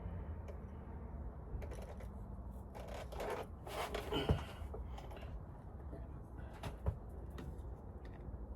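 Rustling and scraping from parts and tools being handled, with a sharp knock a little past four seconds in and another about seven seconds in, over a steady low hum.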